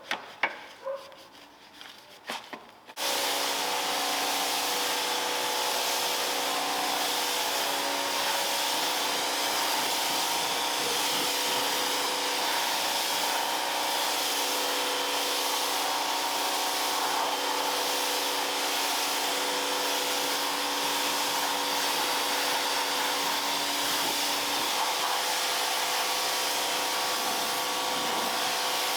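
A few sharp clicks and knocks, then an electric pressure washer starts abruptly about three seconds in and runs steadily: a constant motor-pump whine under the hiss of the water spray.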